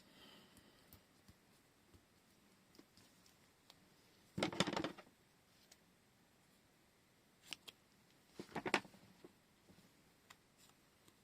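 Washi tape and paper being handled at a desk: two short crackling bursts, about four and a half and eight and a half seconds in, with a few single light clicks between them.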